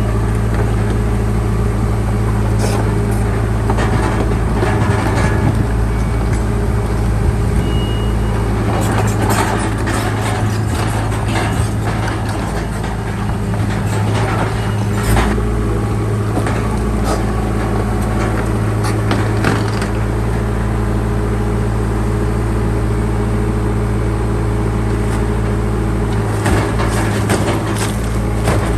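Heavy diesel engine of a bulldozer running steadily at working revs, with scattered sharp metallic clanks and knocks, a cluster of them in the middle and a few near the end.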